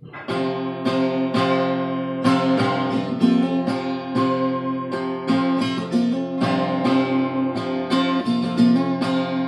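Acoustic guitar intro, strummed and picked chords in a steady rhythm.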